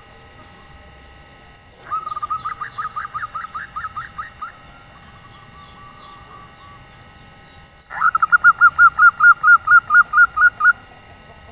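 Female zebra dove (perkutut) giving its rapid 'nyelir' call: two runs of quick, evenly repeated cooing notes, about five a second, the second run louder. A soft, lower trill comes between them.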